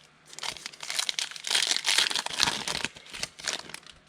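Foil wrapper of a football trading-card pack being handled and torn open: a dense crackling that lasts about three seconds and is loudest in the middle.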